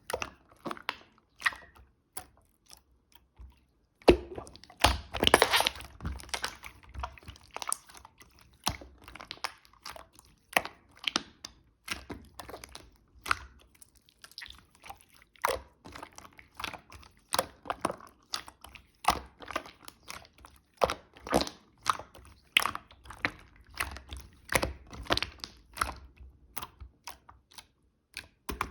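White slime being squeezed and poked by hand, giving a dense, irregular run of sticky clicks, pops and crackles, with a short lull a few seconds in.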